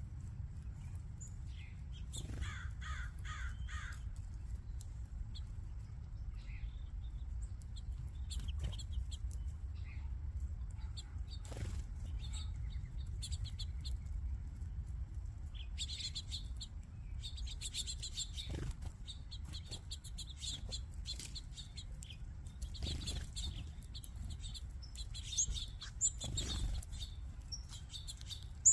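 A flock of small feeder birds, finches and sparrows, chirping busily in many short high calls, with a quick run of repeated notes a couple of seconds in and brief scattered flutters and clicks. A steady low rumble runs underneath.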